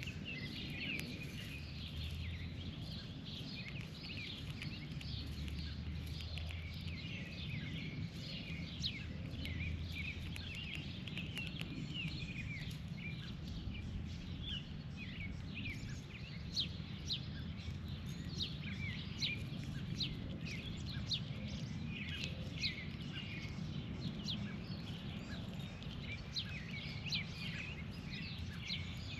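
Birds chirping and calling over and over in quick short notes, with a steady low rumble underneath.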